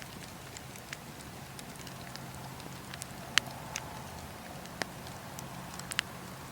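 Firewood burning in a bonfire, crackling with scattered sharp pops over a steady low background; the loudest pops come about halfway through and near the end.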